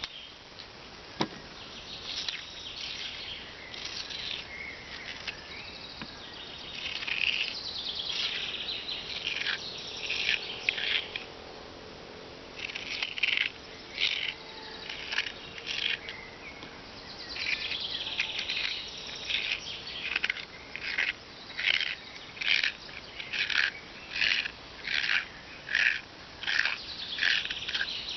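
A teaspoon scraping out the middle of a raw potato in short repeated strokes, falling into a steady rhythm of about one and a half scrapes a second in the second half.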